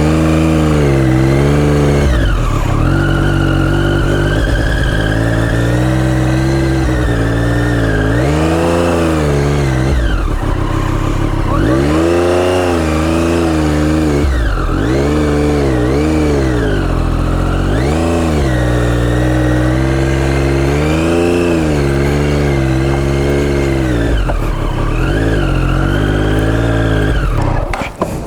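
Motorcycle engine revved hard over and over, its pitch rising and falling every second or two, as the bike is powered through rough off-road ground.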